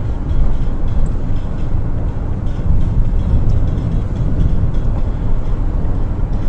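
Steady low rumbling noise, like a vehicle in motion, with no distinct bang.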